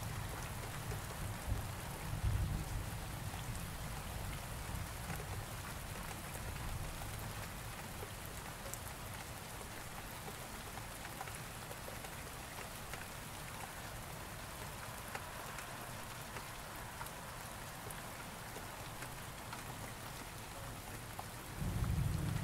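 Steady rain falling. A low thunder rumble dies away over the first few seconds, and another rumble of thunder starts near the end.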